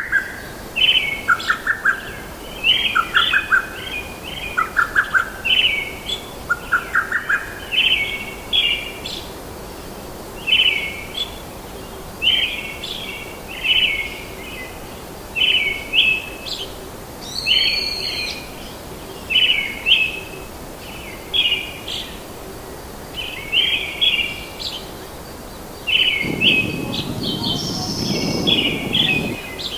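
Birds calling: a long series of short, repeated chirps, about one or two a second, with a second, lower chirping call joining in during the first several seconds. A low rushing noise swells briefly near the end.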